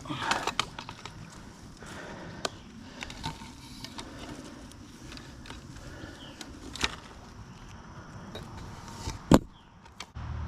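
Scattered knocks, clicks and rustling as a small longnose gar is flipped in and handled, with one loud thump about nine seconds in.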